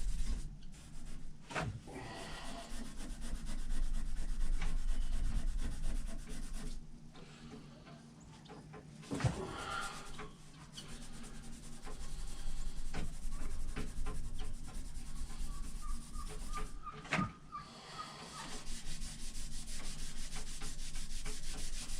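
Scotch-Brite abrasive pad rubbed by hand over a steel axe head to take off rust and polish it: a steady scrubbing rasp that eases off for a couple of seconds about a third of the way in, with a few sharp knocks.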